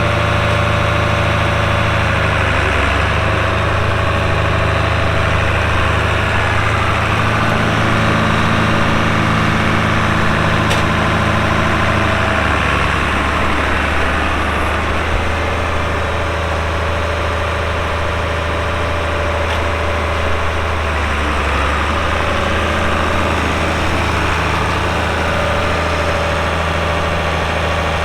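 International 686 tractor's D-312 six-cylinder diesel running steadily, its engine note shifting slightly twice.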